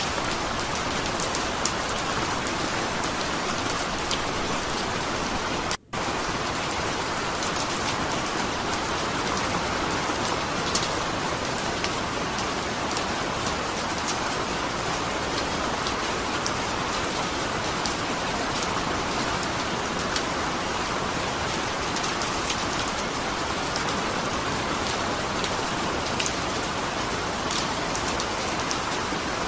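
Steady rain, with the individual raindrops heard as fine ticks over an even wash. The sound drops out for a split second about six seconds in, then carries on unchanged.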